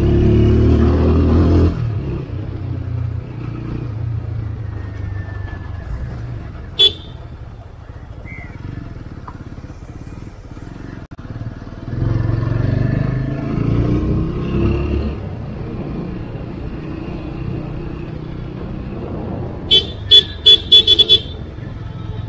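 TVS Apache RTR 200 4V's single-cylinder engine running under way, easing off about two seconds in and pulling harder again about twelve seconds in. A vehicle horn gives one short toot about a third of the way through and a quick string of about six toots near the end.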